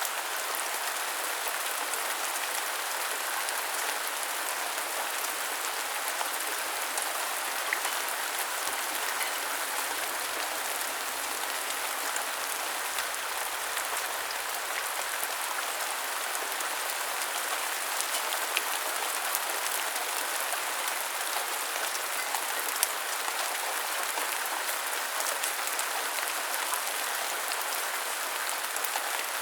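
Steady rain falling on hard surfaces, an even hiss with scattered drop ticks.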